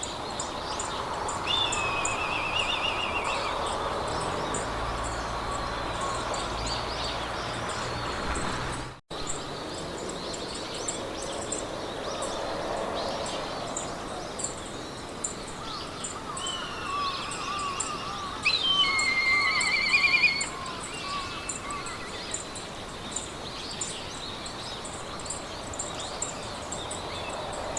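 Meadow ambience: songbirds trill and chirp, loudest about two-thirds of the way through, over a soft hiss of wind in grass and a fast, steady high-pitched ticking of insects. The sound cuts out for an instant about nine seconds in.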